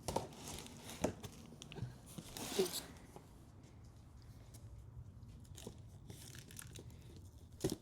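Packing tape and cardboard being stabbed and torn with a small screwdriver to open a taped box: a few sharp taps in the first two seconds, a short louder tear about two and a half seconds in, then faint scratching.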